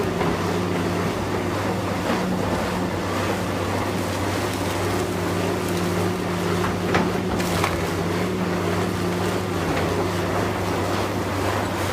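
Engine of heavy demolition machinery running steadily, with occasional sharp cracks and clatters of breaking debris.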